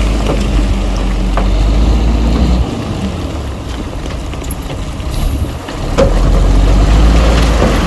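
Heavy diesel engine of earthmoving machinery running under load, with a deep hum that eases about two and a half seconds in and builds again about six seconds in, and a few sharp metallic clanks.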